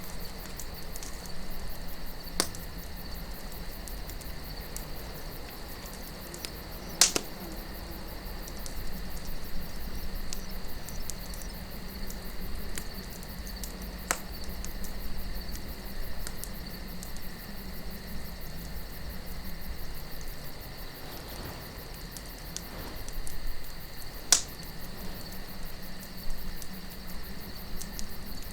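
Campfire of burning wood crackling, with four sharp pops about 2.5, 7, 14 and 24 seconds in, the ones at 7 and 24 seconds loudest. Underneath runs a steady low wind and a constant high chirping of crickets.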